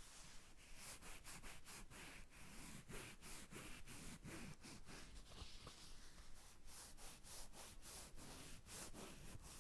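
Faint close-up rubbing and scratching by hands on an object, a steady run of quick crackly strokes at about four a second.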